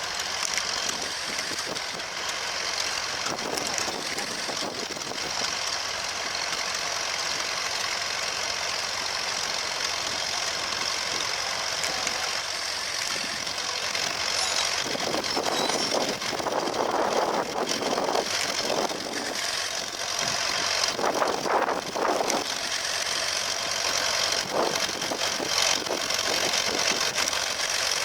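Vintage tractor engine running as it ploughs, steady throughout and getting a little louder in the second half.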